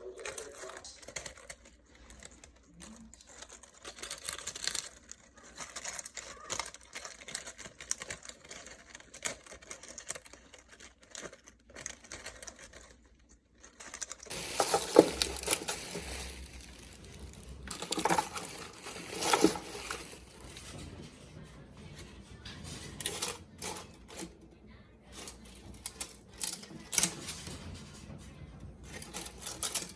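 Parrots chewing and tearing apart eucalyptus leaves and branches: irregular crackling, crinkling and snapping, with louder bursts about halfway through and again a few seconds later.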